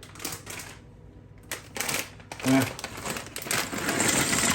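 Water poured from a glass into a pan of pasta and soup, a splashing pour that starts about a second and a half in and grows louder.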